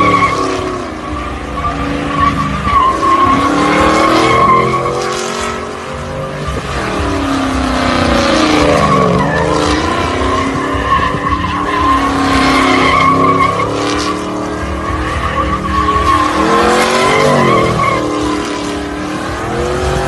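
Supercharged Chevrolet Silverado pickup doing donuts: the engine revs up and down repeatedly over a steady, loud squeal of spinning tires.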